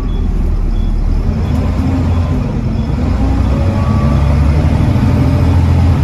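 Volvo D7C 7.3-litre six-cylinder diesel of a Volvo B7TL double-decker bus running under way, a low drone getting steadily louder.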